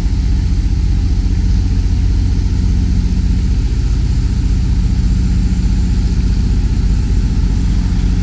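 Semi tractor's diesel engine running steadily at low revs, a deep even drone.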